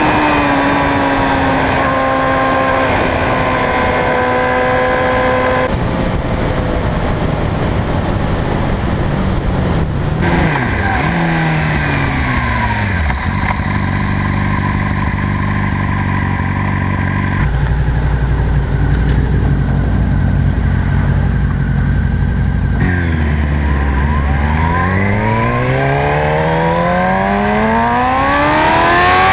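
Sport motorcycle engine with a Two Brothers aftermarket exhaust, slowing down with falling pitch, then idling steadily for several seconds. In the last few seconds it revs up and accelerates, its pitch rising and the sound getting louder.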